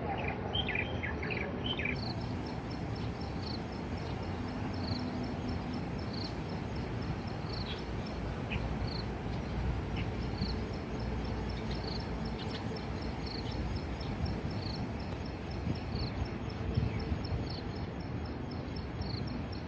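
Small wild songbird, called the klik-klik bird, giving short high chip notes repeated about once or twice a second. A quick cluster of chips comes in the first two seconds. Under it runs a steady high insect drone and outdoor background noise.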